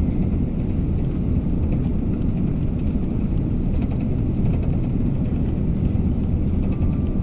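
Steady low rumble inside the cabin of an Airbus A350 on the ground just after landing, with a few faint clicks.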